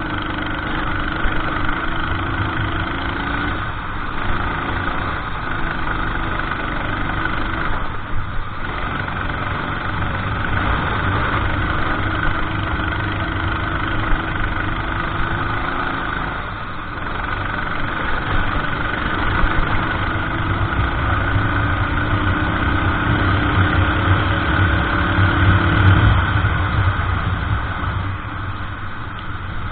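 Racing kart engine running at speed, its pitch climbing steadily for several seconds and then dropping sharply, four times, as the kart lifts off for corners and pulls away again.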